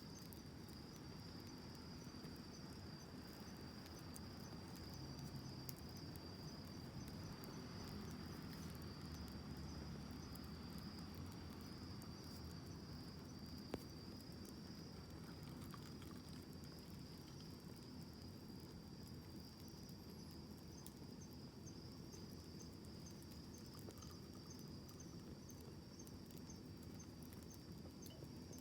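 Faint wood fire burning, a low rumble of flames with scattered light crackles and one sharper pop about halfway through. A steady high-pitched cricket trill runs behind it.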